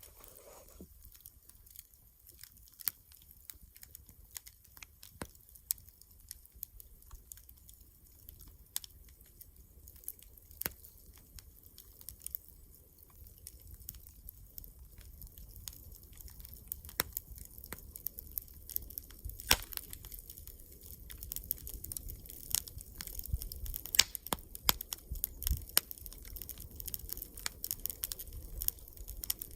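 Wood campfire crackling, with sharp pops scattered through and coming more often and louder in the second half.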